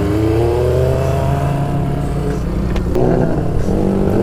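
Motorcycle exhaust, loud, as the bike accelerates hard: the engine note rises steadily, breaks briefly about three seconds in at a gear change, then climbs again near the end.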